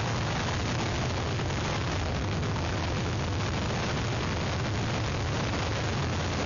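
Hurricane Ernesto's wind blowing across an outdoor webcam microphone: a loud, steady rush of noise over a heavy low rumble, with no let-up.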